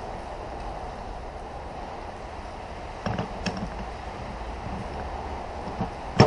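Steady background hiss with a few light clicks about halfway through and one sharp knock near the end, typical of metal transmission parts being handled on a bench.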